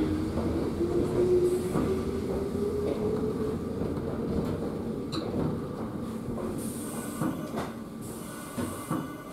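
Cabin noise of a Kōnan Railway electric train slowing to a stop: running noise that fades as the speed drops, with a thin tone rising slightly in the first half. There are a few short knocks near the end.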